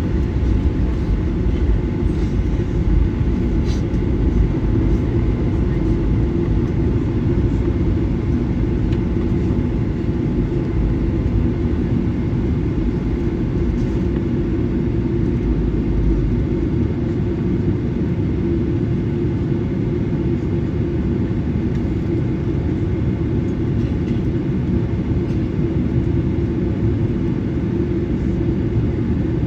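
Steady cabin rumble of a Boeing 737-900ER with its two CFM56-7B turbofan engines running, heard from inside the cabin. The deepest part of the rumble eases slightly about halfway through.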